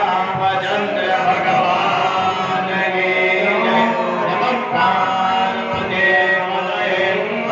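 Group of voices chanting a devotional dhun together, steady and continuous.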